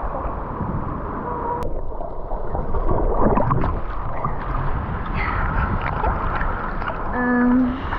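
Wind rumbling on the microphone with water sloshing, a steady noisy roar. There is a sharp click about a second and a half in, and a short steady tone near the end.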